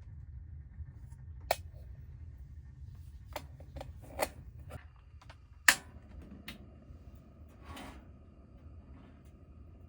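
A few sharp, separate knocks and clicks, like things being handled or set down, the loudest about six seconds in, over a low steady hum.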